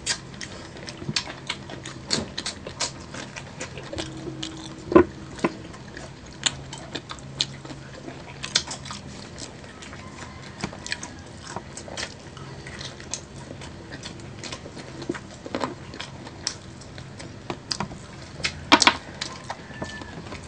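Crispy fried chicken wings being bitten and chewed by two people, a steady run of crunches and wet mouth sounds, with a louder crunch about five seconds in and another near the end.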